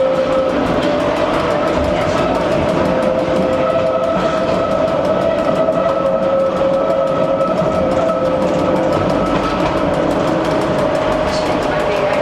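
Electric train running steadily, a constant pitched whine from its motors and gearing over the rumble of the wheels on the rails.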